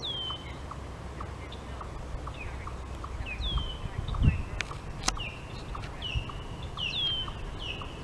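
A bird calling over and over in short notes that each slide down in pitch, coming more often in the second half, over a faint regular ticking about twice a second. There is a low thump about halfway through.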